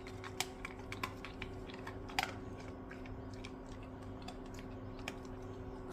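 A dog crunching and chewing something it has just been given: irregular sharp clicks and crackles, one louder crack a little over two seconds in, over a steady low hum.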